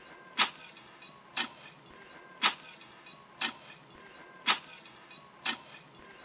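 Steady ticking, one sharp tick about every second, over a faint held tone.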